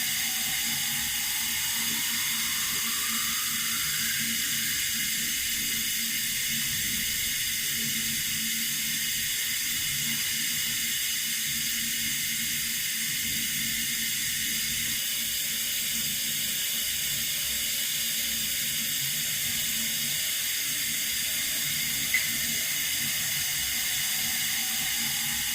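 Water running steadily from a tap, an even hiss, with one brief tick near the end.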